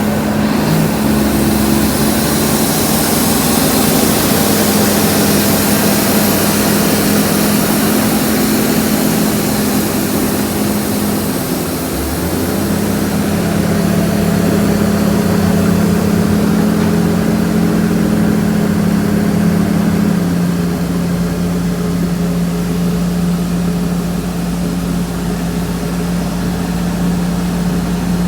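Heavy earthmoving machine's diesel engine running steadily, its note shifting about twelve seconds in and again about twenty seconds in.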